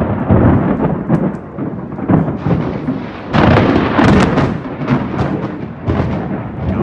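Close thunder from a nearby lightning strike: it breaks in suddenly with crackling and rolls on in several loud surges, strongest a little over three seconds in, then slowly eases.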